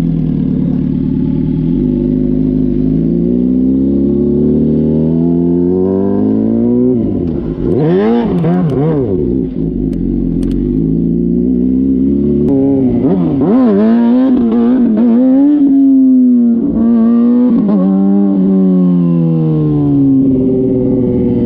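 Motorcycle engine accelerating, its pitch climbing steadily for several seconds before the throttle is cut about seven seconds in. It is then revved up and down in quick swings, held at high revs for a few seconds, and eased off near the end.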